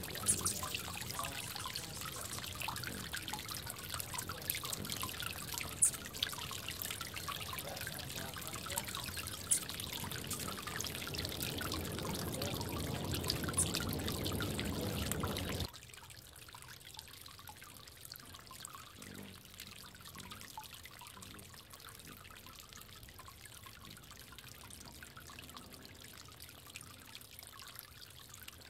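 Water trickling in a bird bath, with a few sharp high ticks over it. About halfway through, the water sound drops suddenly to a much quieter trickle.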